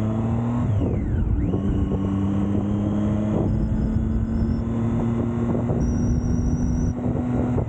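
Triumph Street Triple inline-three motorcycle engine running, its pitch dropping about a second in and then holding steady.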